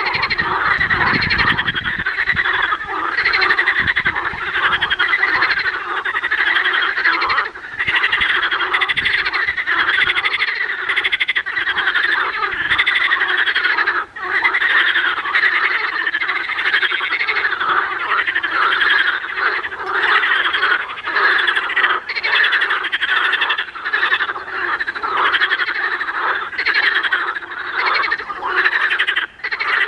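A dense chorus of many frogs croaking at once, their calls overlapping in a continuous rattling din with no pauses.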